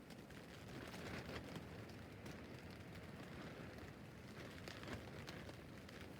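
Rain falling on a tent roof: a steady patter with many separate drops ticking on the fabric.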